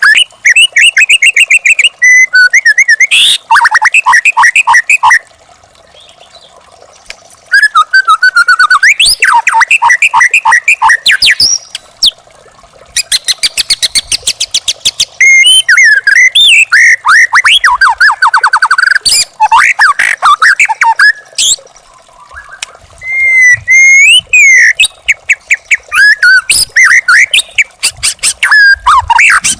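Young wild white-rumped shama singing: long runs of loud whistled notes, pitch glides and fast repeated notes, broken by two short pauses.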